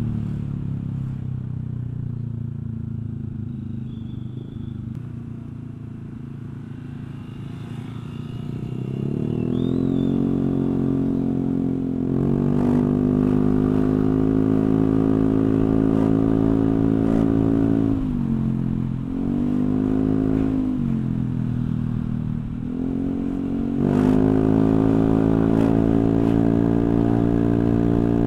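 Honda Vario 125 scooter's single-cylinder four-stroke engine through a CLD C3 oval aftermarket racing exhaust with the dB killer baffle removed. It idles, is revved up and held high, drops back with one short blip, then is revved up and held high again near the end.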